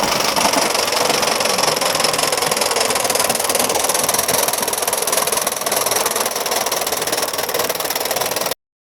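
Gauge 1 live-steam GWR Hall Class model locomotive running, a fast, even beat over steady steam hiss. The sound cuts off suddenly near the end.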